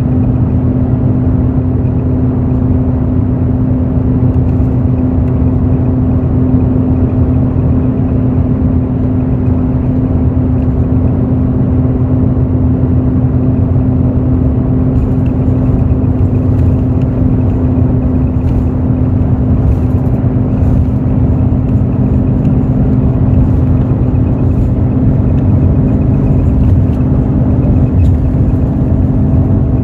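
Hino J08E-VD inline-six diesel of a Hino RN8JSVU intercity bus heard on board, droning steadily at a constant pitch with road noise, the bus cruising without a gear change. Faint light clicks or rattles join from about halfway through.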